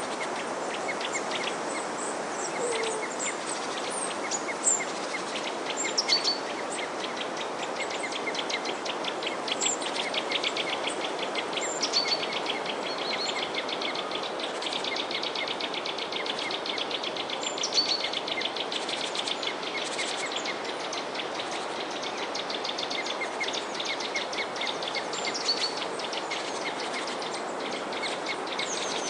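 Many small songbirds chirping and twittering over a steady background hiss, with a long, rapid, buzzy trill through the middle stretch.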